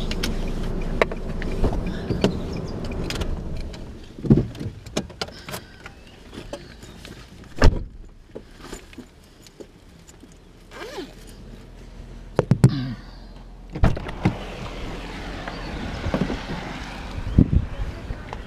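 A car engine idling, fading out about four seconds in, followed by scattered knocks and clicks of a car door and handling as someone gets out of the car.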